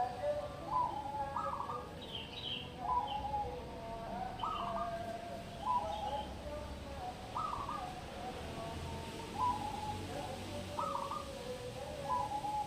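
Zebra dove (perkutut) cooing: a short, repeated song phrase every second or two.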